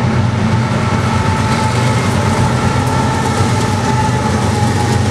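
BNSF diesel freight locomotives heading a double-stack container train pass close by at speed: a loud, steady low engine drone mixed with wheel and rail noise.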